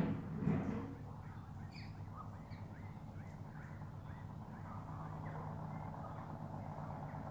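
Bird calls: a louder call fading out in the first second, then faint, short chirps and squeaks, over a low steady hum.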